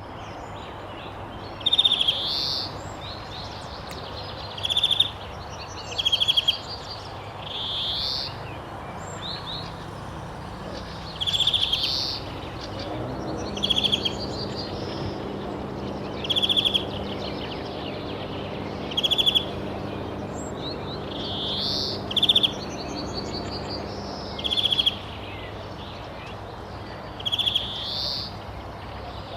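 A bird repeating a short high call about every two to three seconds, each a quick buzzy trill followed by a rising note, over steady low background noise.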